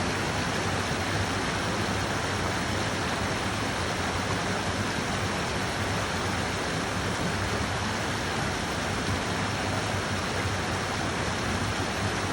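Steady rushing of a mountain stream, an even unbroken sound of water.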